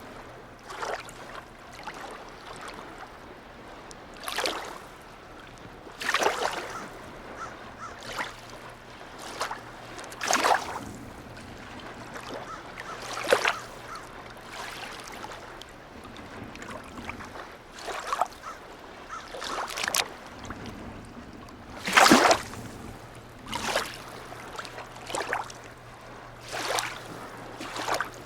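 Small harbour waves lapping and splashing at irregular intervals of a second or two, one splash about two-thirds of the way through louder than the rest, over a faint steady low hum.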